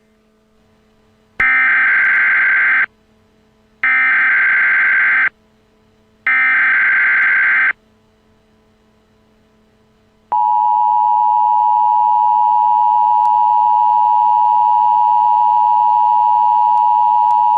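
Emergency Alert System alert: three identical bursts of digital SAME header data, each about a second and a half long with short gaps between them. About ten seconds in, the two-tone EAS attention signal (853 and 960 Hz together) begins and holds steady.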